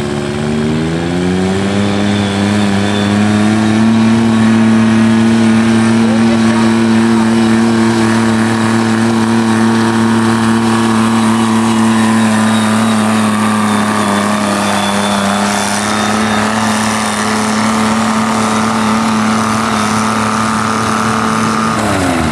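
Diesel engine of a Cub Cadet garden tractor pulling hard under load in a tractor pull. The engine note sags as the load comes on and recovers within a couple of seconds. It holds a steady high pitch for most of the run, then drops off at the very end as the throttle comes back.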